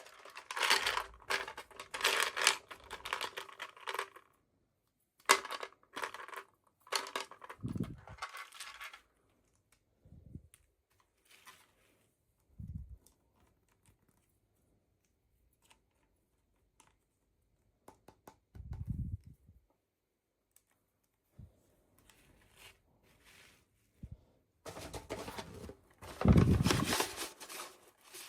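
Hands opening packaging: bursts of crinkling and tearing in the first nine seconds and again near the end, with a mostly quiet stretch in between and a few soft low thumps.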